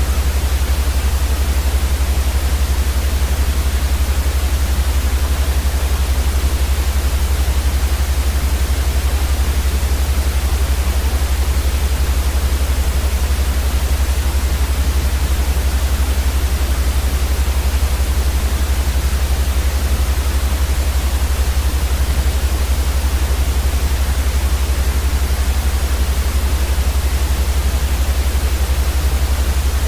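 Steady synthetic white noise for sleep: an even hiss over a strong low rumble, unchanging throughout.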